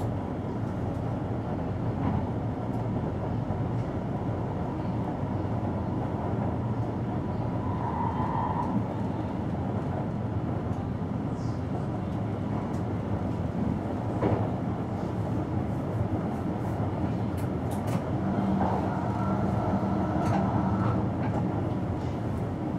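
Passenger train running along the line, heard from inside the driver's cab: a steady rumble of wheels on rail, with a few sharp clicks and two brief whining tones, one about a third of the way in and one near the end.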